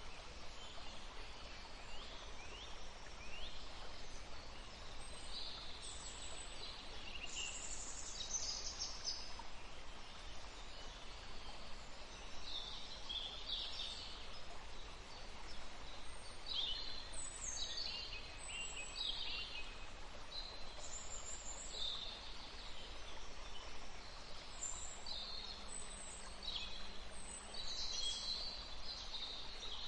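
Songbirds chirping and calling in a forest: many short, high-pitched calls and trills from several birds, some overlapping, over a faint steady hiss of background noise.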